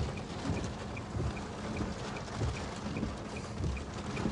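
Wind buffeting the microphone in short irregular low gusts over a steady rushing noise from the approaching thunderstorm. A faint high beep repeats evenly about two and a half times a second.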